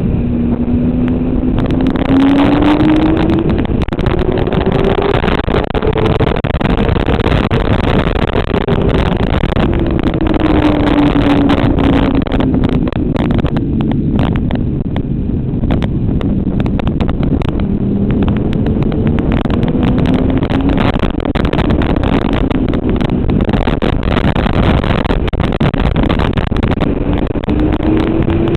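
Motorcycle engine under way on a race track. Its revs climb over several seconds, fall back, then climb again, repeating a few times, over a constant rush of wind noise.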